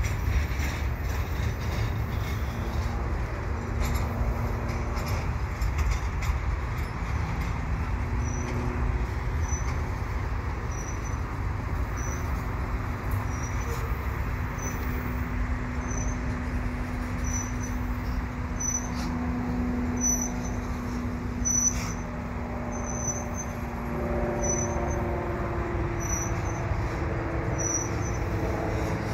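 Double-stack container freight train rolling past: a steady low rumble of steel wheels on rail with a faint hum and a few sharp clanks. A high short chirp repeats about once a second.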